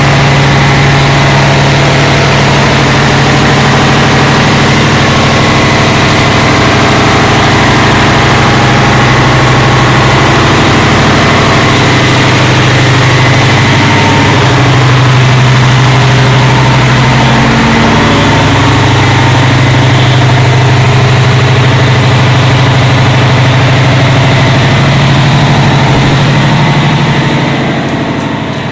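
Loud, steady drone of a ship's engine room with the Niigata diesel main engines running, a constant low hum under a wide machinery noise. The level falls away near the end.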